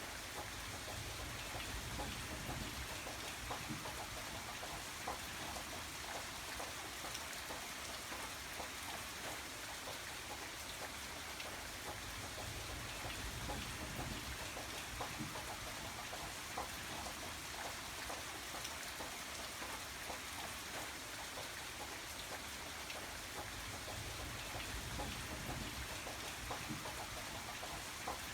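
Steady rain falling, with many distinct drops pattering on a surface over an even hiss and a soft low rumble that swells and fades every few seconds.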